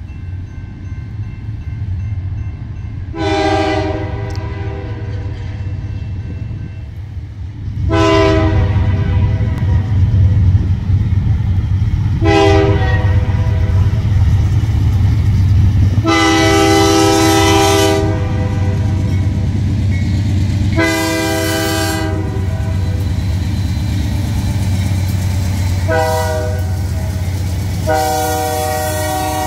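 Freight train's diesel locomotives passing, the multi-chime air horn sounding seven blasts, some short and some about two seconds long, over a steady low engine rumble that grows louder about eight seconds in.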